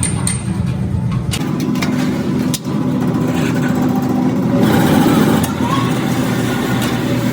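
A motor running with a steady hum. There are quick clicks during the first second or so, then the pitch shifts to a lower steady drone at about a second and a half.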